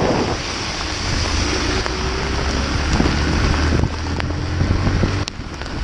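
Motorcycle riding in heavy rain: a low engine hum under a steady rush of wind and rain noise on the microphone. The engine hum drops away about five seconds in.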